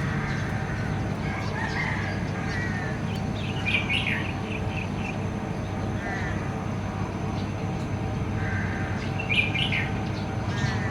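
Songbird chirps in two short clusters of quick, high notes, about four seconds in and again near the end, with fainter warbling between, over a steady low background hum.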